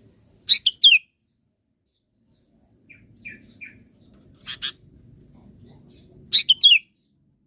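Sooty-headed bulbul (kutilang) singing: a short, bright phrase of quick falling notes about half a second in, repeated near the end, with softer chirps and two sharp notes in between.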